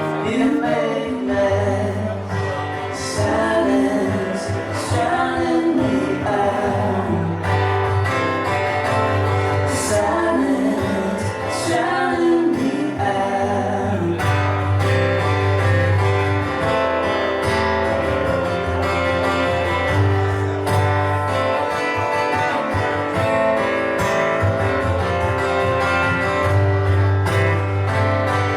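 Live band music: a guitar-led instrumental passage of a song over a steady bass line.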